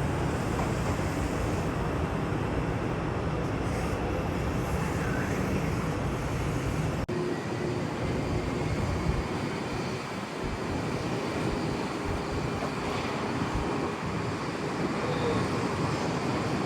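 Jet airliner engines running, a steady noise with faint whining tones. It breaks off abruptly about seven seconds in and carries on with less low rumble.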